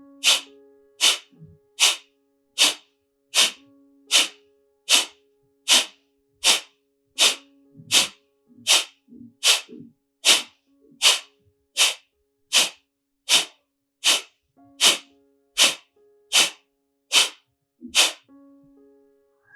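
Kapalbhati breathing: short, forceful exhalations snapped out through the nose at a steady pace of about one every three-quarters of a second, with passive inhalations between them. The set of strokes stops near the end, over soft sustained background music.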